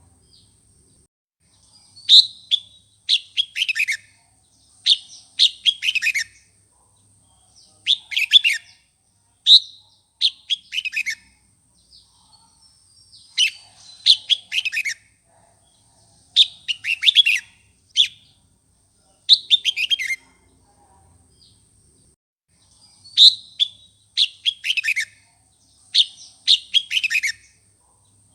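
Red-whiskered bulbul singing a heated song: short phrases of quick, falling whistled notes, repeated every second or two with brief pauses.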